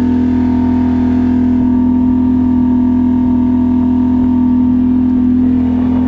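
Can-Am ATV engine running at a steady speed, a constant drone that holds one pitch throughout.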